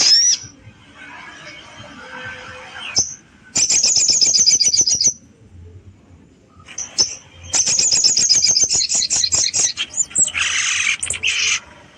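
Sogon songbird singing in two bouts of rapid, high-pitched chattering trills. The second bout ends in a harsh buzzy burst. This is a rival-provoking song used as a training recording to excite other birds.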